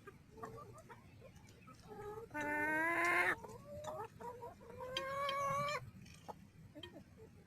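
Backyard chickens clucking softly while feeding, with two loud, drawn-out calls about a second long each, the first a little past two seconds in and the second near five seconds.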